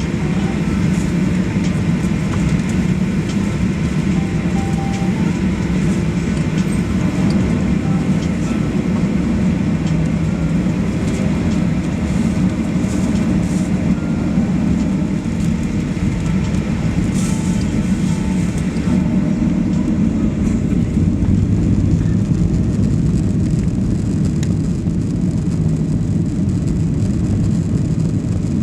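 Steady low engine rumble of a jet airliner, holding an even level with no rise in power.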